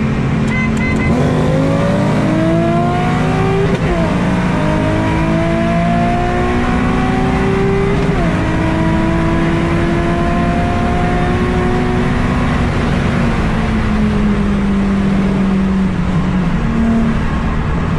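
Car engine pulling hard at full throttle, its revs climbing in long rises broken by two quick upshifts, about four and about eight seconds in. Around twelve seconds in the throttle is lifted and the revs fall away.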